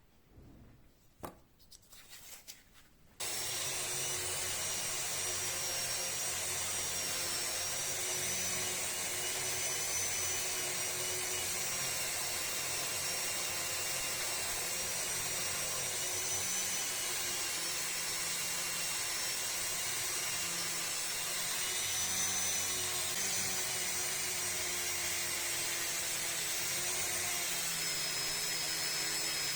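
Dremel rotary tool starting up about three seconds in and running steadily with a high whine that wavers slightly, polishing metal with metal polish. A few faint clicks come before it starts.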